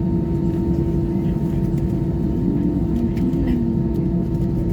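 Steady cabin noise inside an Airbus A320-214 taxiing after landing, its CFM56 engines at idle, with a steady hum tone throughout. Faint passenger voices sound under it.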